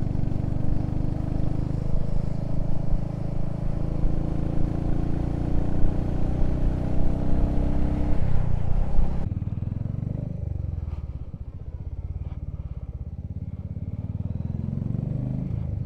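Motorcycle engine running under way with wind rush over the helmet microphone. About nine seconds in the wind noise cuts off abruptly and the engine goes on more quietly at low revs.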